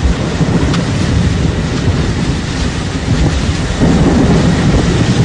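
Wind and heavy rain of a severe storm: a loud, steady rushing noise with a deep rumble underneath.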